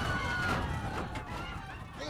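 People crying out in short, high, wavering voices over a low rumble.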